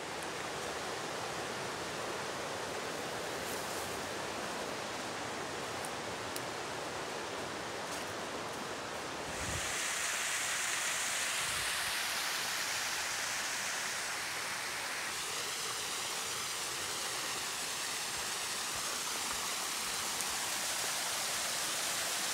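Rushing river water, a steady hiss that grows louder and brighter about nine seconds in, as from a small cascade sliding into a pool.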